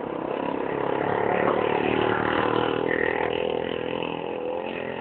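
An engine running steadily, getting louder through the middle and fading away near the end.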